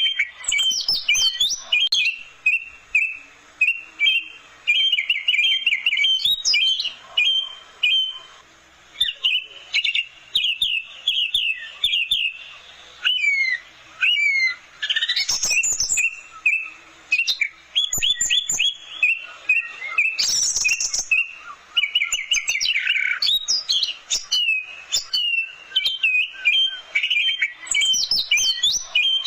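Orange-headed thrush singing a fast, varied song of short whistled and chattering phrases, nearly continuous with only brief pauses.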